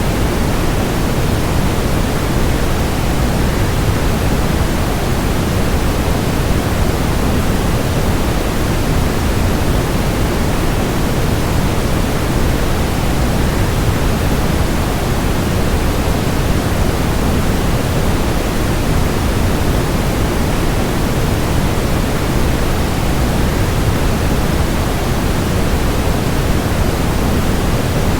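Waterfall noise: a steady, unbroken rush of falling water, heaviest in the low range, with no changes or separate sounds.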